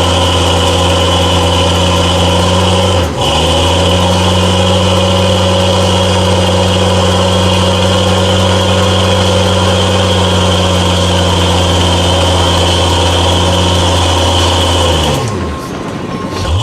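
Truck engine held at steady high revs, its pitch dipping briefly about three seconds in and falling away near the end.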